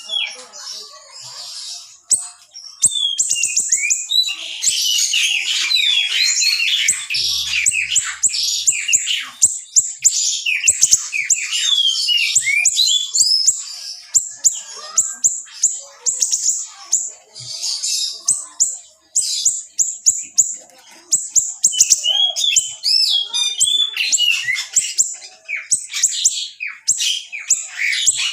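A small songbird (the 'siri') singing a dense, rapid string of sharp, high-pitched chirps, fast trills and short whistles, in tight bursts with barely a pause between them. It is a masteran song recording of the kind played to teach caged songbirds new phrases.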